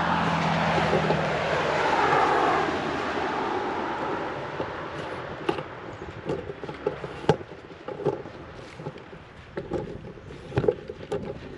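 A vehicle passes by, loudest in the first couple of seconds, its pitch sweeping down as it goes, then fading. After that come irregular crunching steps through grass.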